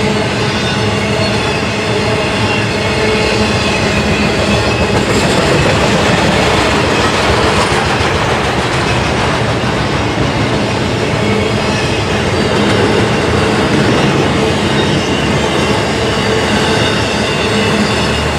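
Norfolk Southern intermodal container train's cars rolling past: a steady, loud rumble of steel wheels on rail.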